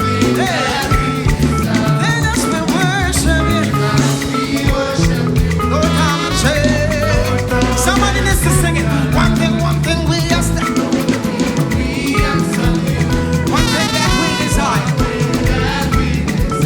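Live upbeat gospel praise music: band with bass and drum kit playing a lively dance rhythm, with singing over it.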